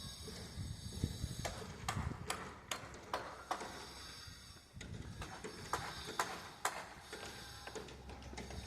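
A series of sharp clicks in two short runs, about two to three a second, over a faint low background rumble.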